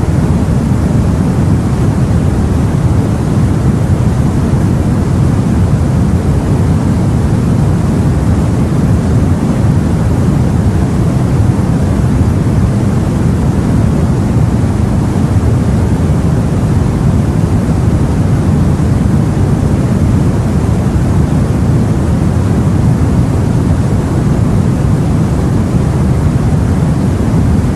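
Sea and wind ambience: a steady, deep rushing noise with no distinct breaks or surges.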